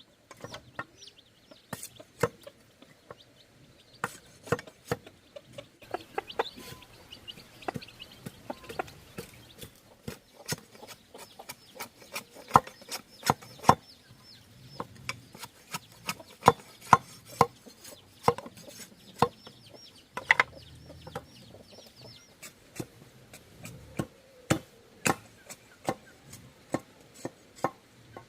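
Bamboo being chopped with a blade: sharp, irregular knocks, a few a second, with chickens clucking in the background.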